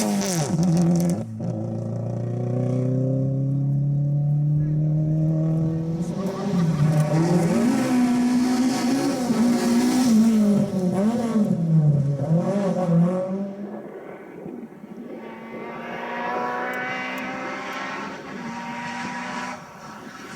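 Rally car engine at stage pace. About a second in it lifts sharply, then its note climbs steadily as it accelerates, then rises and falls over and over with the throttle before fading. A fainter engine note climbs again near the end.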